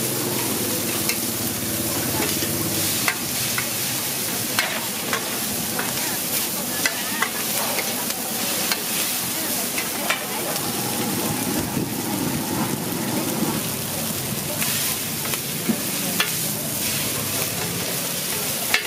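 Pad thai noodles, bean sprouts and egg sizzling on a large flat round pan while two metal spatulas scrape and toss them, with frequent irregular sharp clinks of metal on the pan.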